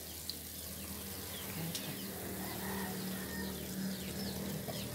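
Birds chirping in many short, high, falling chirps over a steady low hum.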